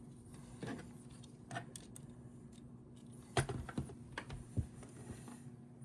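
Plastic action-figure parts being handled and clicked together: a run of scattered light clicks and clacks, the sharpest a little past three seconds in and another at about four and a half seconds.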